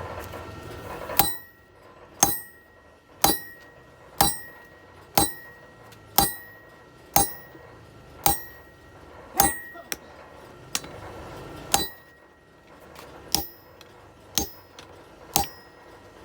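Blacksmith's hammer striking metal at a steady pace of about one blow a second, each blow ringing briefly, with a few lighter taps between: hammering a cut through the metal.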